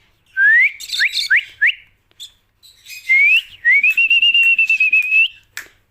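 A person whistles to call tame lovebirds: four short rising whistles in quick succession, then after a pause a short rising whistle and a longer one that rises and holds with a slight warble.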